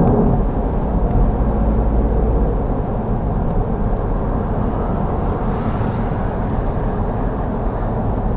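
Steady engine and road noise of a car driving, recorded from inside the vehicle by a dash cam.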